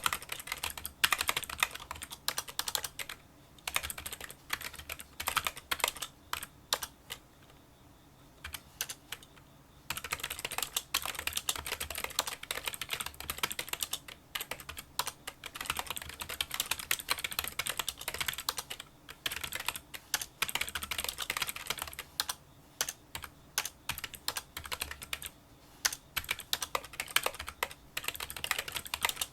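Fast typing on a Kinesis Freestyle Solo split keyboard with membrane key switches: rapid runs of small clicking keystrokes, quieter than a typical membrane keyboard. The typing breaks off for about three seconds roughly a quarter of the way in, then resumes.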